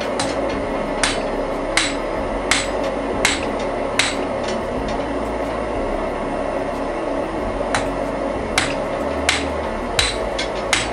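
Hand hammer striking hot wrought iron on an anvil in steady blows, about one every three-quarters of a second, pausing for about three seconds midway before resuming, over a steady rushing background noise.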